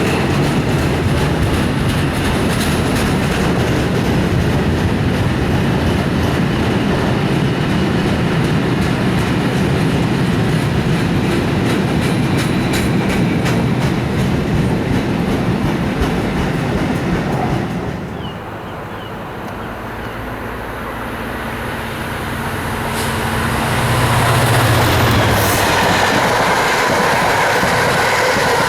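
A train passing close by, its wheels clattering rhythmically over the rail joints. The noise drops off abruptly about two-thirds of the way in as the train clears. A low steady hum then builds back up toward the end.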